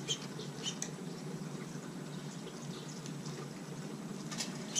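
Small birds giving a few short, faint chirps, one or two near the start and a couple more near the end, over a steady low background hum.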